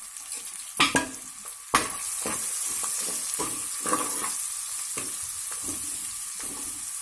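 Chopped onions and cumin sizzling in hot oil in an aluminium pressure-cooker pan while a spatula scrapes and stirs them, with a knock about a second in. The sizzle gets suddenly louder a little under two seconds in, as the stirring turns the onions through the oil.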